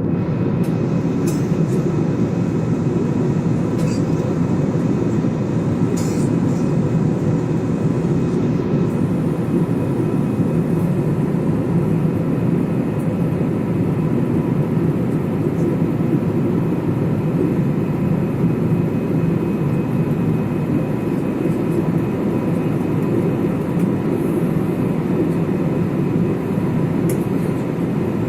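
Airbus A320's twin jet engines running steadily at takeoff power: a loud, even rumble with faint steady tones above it.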